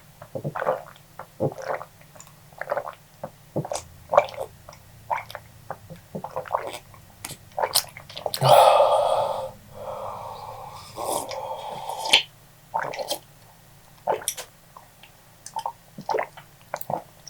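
Close-miked mouth and breath sounds from a man reacting to an extremely hot chip: many short wet clicks and smacks, and one loud, rough blast of breath about eight seconds in lasting around a second, followed by weaker breathy noise.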